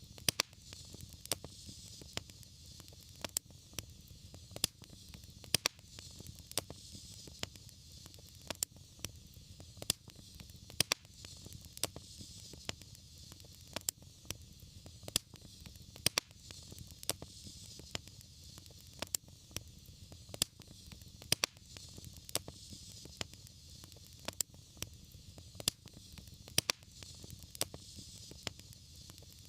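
Wood fire burning with steady crackling: frequent sharp pops and snaps over a low rumble and a soft hiss.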